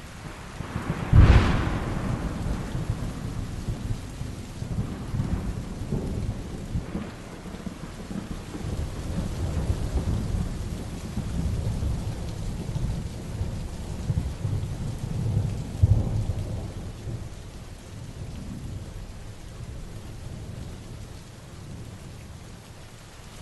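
Heavy rain falling steadily with thunder: a sharp clap about a second in, then long low rolling rumbles, with another loud peak about two-thirds of the way through before the thunder dies down.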